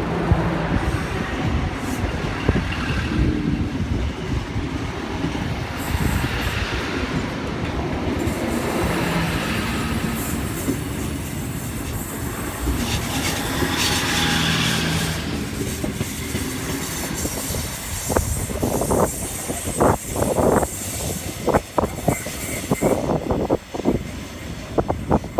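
NSW TrainLink Xplorer diesel multiple unit passing through the station: a steady rumble of engine and wheels. For the last several seconds it turns to a run of sharp wheel clacks over the rail joints.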